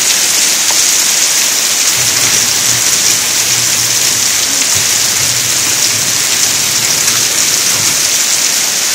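Heavy rain pouring down in a downpour: a loud, steady, dense hiss of water on the ground and on surfaces.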